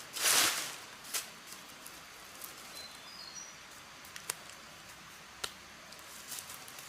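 Forest ambience: a short rustle at the start, then a steady high hiss with a few sharp clicks, and a bird's brief high chirps about three seconds in.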